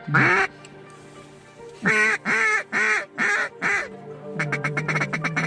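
Loud, nasal mallard-hen-style quacks: one at the start, a run of five evenly spaced quacks about two seconds in, then a quick chatter of short clucks lasting about a second.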